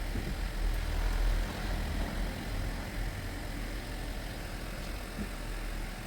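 Kia K3's Gamma II MPI four-cylinder petrol engine running steadily with a low hum.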